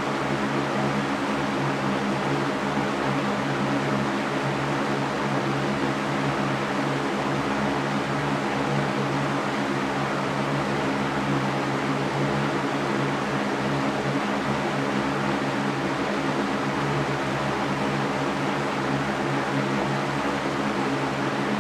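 Electric fan running steadily: a constant low hum with an even airy rush over it, unchanging throughout.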